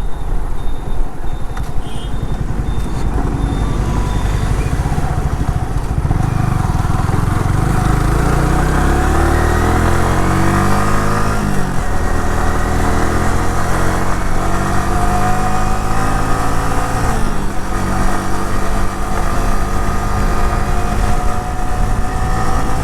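Motorcycle engine running while riding, with wind rumbling on the microphone. From about six seconds in, the engine note climbs, drops sharply twice as it shifts gear, and then keeps rising slowly.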